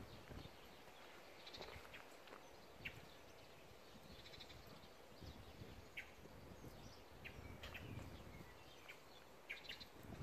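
Quiet outdoor ambience with a few faint, brief high bird chirps scattered through it, about one every second or two.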